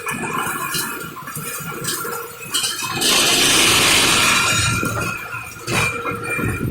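Machinery working with a steady whine and irregular knocks, and a loud hiss lasting about a second and a half, about three seconds in.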